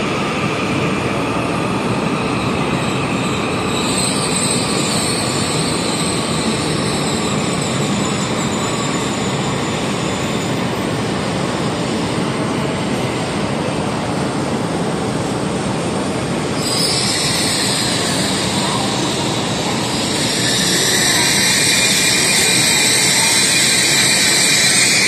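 E5 series Shinkansen train pulling slowly into the station platform, a steady rumble and hiss of wheels and running gear. About 17 seconds in a high squeal sets in and grows louder about 20 seconds in as the train brakes to a stop.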